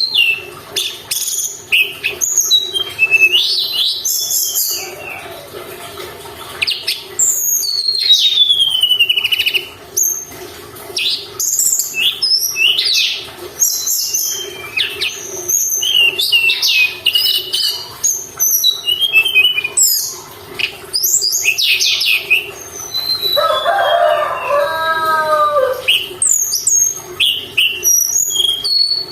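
Tledekan gunung (Sunda robin) singing continuously in a fast, varied run of high whistles, chirps and sweeping notes, a lure recording meant to provoke caged songbirds into singing. A lower, harsher call sliding down in pitch sounds for a couple of seconds just after the middle, over a faint steady hum.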